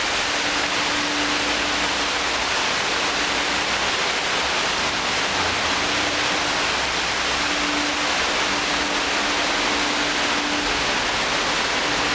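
Water pouring steadily down a park's man-made cascade, a constant even rush.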